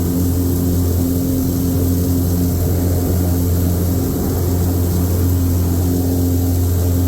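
Steady, even engine drone with a deep hum.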